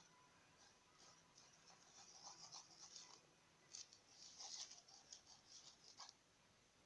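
Faint, irregular scraping of a spoon stirring glue on a paper plate, stopping about six seconds in.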